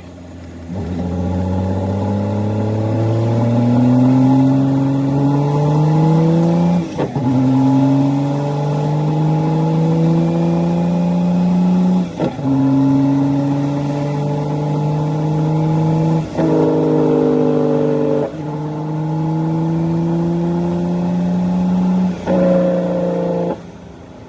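Straight-piped CAT C13 diesel of a Kenworth W900B dump truck pulling hard through the gears. The engine note climbs steadily and breaks and drops at each of about five upshifts.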